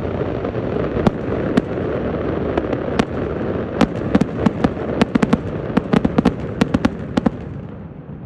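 Aerial fireworks shells bursting in quick succession: a continuous rumble of explosions with many sharp cracks, coming thick and fast from about four to seven seconds in, then dying away near the end.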